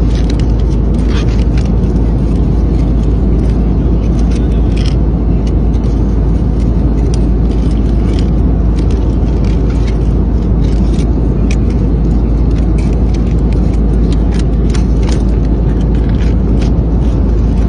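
Steady low roar of an airliner cabin in flight, with light clicks now and then.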